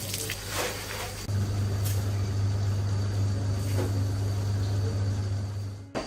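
A mains-powered machine's motor running with a steady low hum, getting louder about a second in and cutting off suddenly just before the end.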